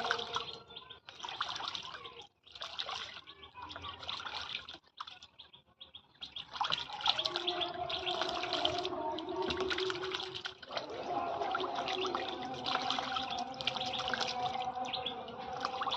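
Water splashing in broken bursts, then from about six seconds in a steady stream of running water with a constant tone.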